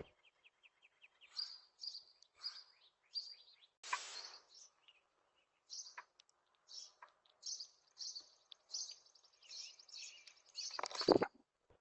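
Small birds chirping and twittering in short, high repeated calls. A sharp click comes at the very start, and near the end a brief loud rustle reaching down to low pitch.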